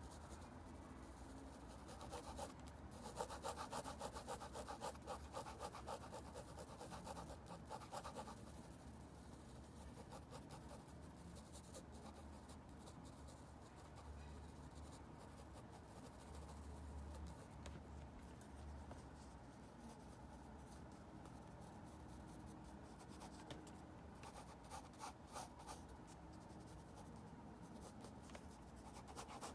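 Faint scratching of a drawing tool on paper, busiest from about two to eight seconds in and again near the end, over a low steady hum.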